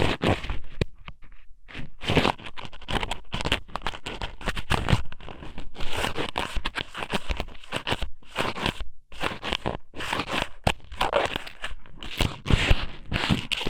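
Ika somen (thin strips of squid) pushed into and rubbed around the ear of an ear-shaped microphone. It makes close, irregular scratching and crunching strokes, several a second, with brief pauses about a second in and near the middle.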